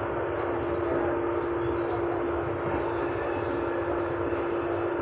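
Interior running noise of a Transperth electric train: a steady rumble under a constant hum held on one pitch.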